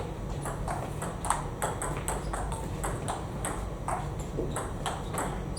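Celluloid-type table tennis balls clicking off bats and the table in rallies: short sharp ticks, two or three a second at an uneven pace.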